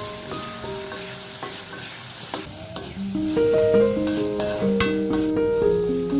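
Food sizzling as it fries in a pan, stirred with a utensil that clicks against the pan now and then. Background music with held piano-like notes plays along and grows louder about halfway through.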